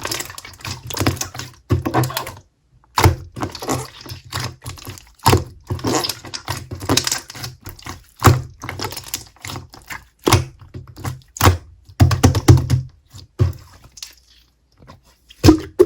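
Clear slime being squished and pressed by hand, giving rapid clicking and popping sounds in bursts, with short pauses about two and a half seconds in and again near the end.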